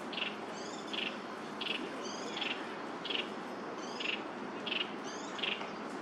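Small birds calling in the trees: a short note repeated about every three-quarters of a second, with a higher, quick chirp every second or two, over a steady background hum.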